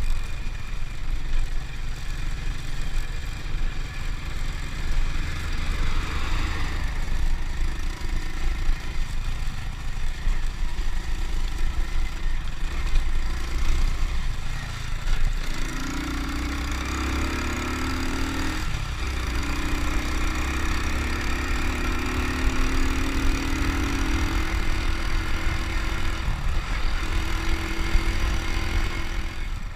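Honda Win single-cylinder four-stroke motorcycle engine running on the road, its pitch wandering at first and then holding steady from about halfway through.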